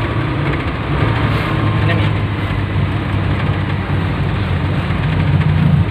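Engine and road noise of a 1986 Suzuki Carry being driven, a steady low hum whose note rises and grows louder near the end.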